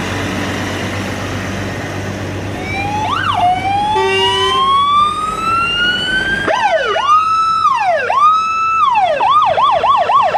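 An electronic emergency-vehicle siren on a parade truck. It starts about two and a half seconds in over the sound of the truck's engine running, winds up in one long, slowly rising wail, switches to a few shorter wails, and near the end changes to a fast yelp, about four cycles a second.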